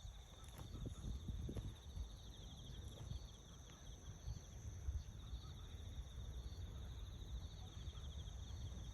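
Steady insect chorus: a high, fast-pulsing trill with a higher, even hiss above it, running without a break, over a low rumble.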